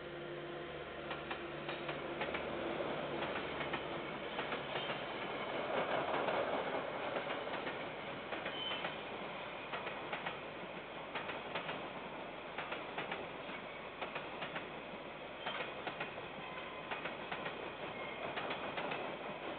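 KiwiRail container freight train passing: a diesel locomotive's engine hums in the first few seconds and is loudest about six seconds in. After that the container wagons roll by with many sharp wheel clicks over the rail joints. It is heard through a security camera's microphone, so the sound is dull with no highs.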